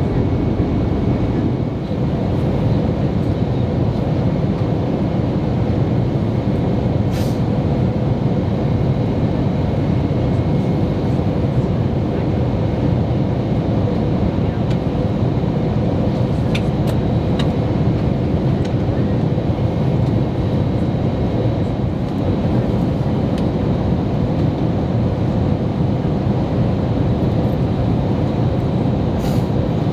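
Airbus A321neo cabin noise in flight: a steady rumble of engines and airflow with a faint constant hum, during the descent toward landing. A few faint clicks are heard now and then.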